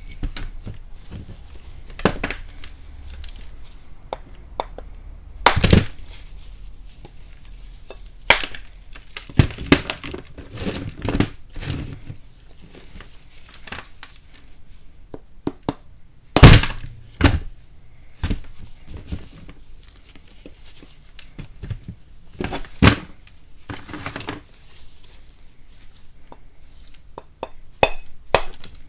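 Lumps of chalk being knocked and broken apart: scattered sharp cracks a few seconds apart, some followed by small crumbling clicks, with the loudest crack about halfway through.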